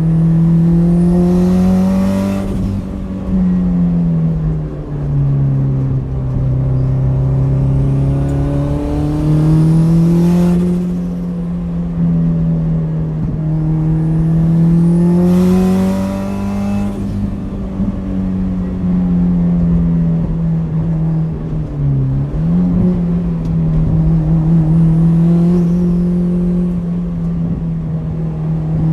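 Straight-piped Subaru WRX's turbocharged flat-four pulling hard through the gears and easing off again between corners, its pitch rising and falling every few seconds. A sharp hiss accompanies several of the pulls, and there is a quick drop in pitch about two thirds of the way through.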